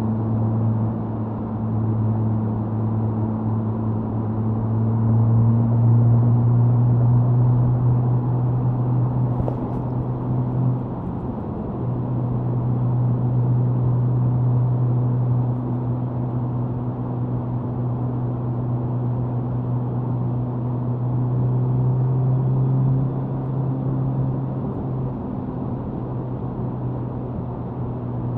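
Suzuki Hayabusa inline-four motorcycle exhaust at a steady high-speed cruise, with wind noise over the microphone. The engine note dips briefly twice, about a third of the way in and again later.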